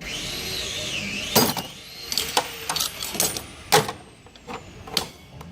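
A wavering high-pitched squeal lasting about a second, then a series of sharp metallic clicks and clanks from hand tools being handled.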